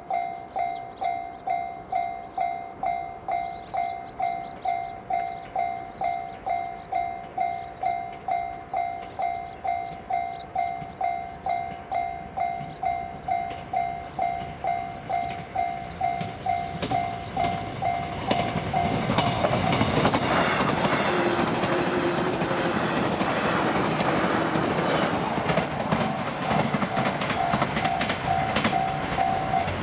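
Level-crossing warning bell ringing at a steady pace, about one and a half strikes a second. About halfway through, a six-car JR West 413 series electric multiple unit (two three-car sets coupled) comes up and passes close by, its wheels clattering over the rail joints. The train drowns the bell, which is heard again near the end.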